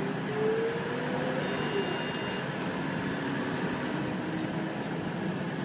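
Steady running noise inside a city bus: engine and road rumble, with a faint whine rising in pitch over the first second and a half.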